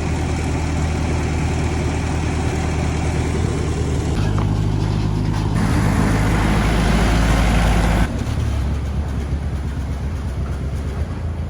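An engine running steadily. It speeds up about four seconds in and drops back to its earlier speed about four seconds later.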